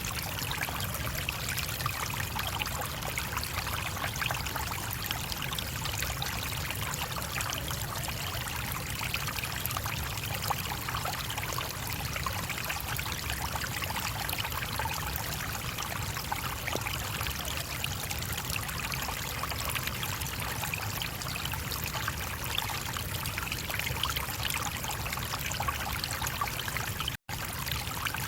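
Brook water flowing steadily, an even rushing and trickling. The sound cuts out for an instant near the end.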